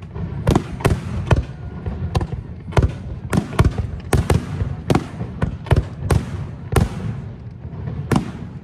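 Fireworks display: a fast, irregular string of sharp bangs from bursting shells, about two a second, each with a short echo.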